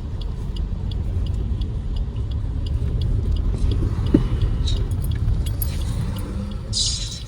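Car cabin noise while driving: a steady low rumble of engine and road, with a light regular ticking over it.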